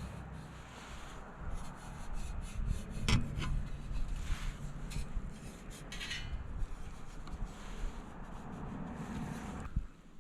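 Irregular rubbing and scraping of objects being handled, with scattered small clicks and knocks.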